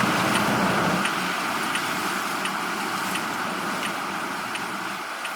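Steady road and tyre noise inside a moving car's cabin, easing slightly after about a second, with a faint tick repeating about every 0.7 seconds.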